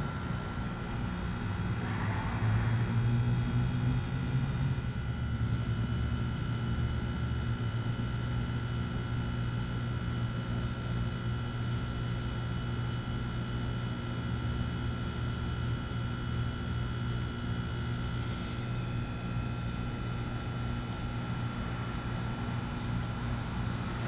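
Trane XR13 2-ton heat pump outdoor unit running: a steady compressor and fan hum with a thin, steady whine above it, swelling slightly a couple of seconds in.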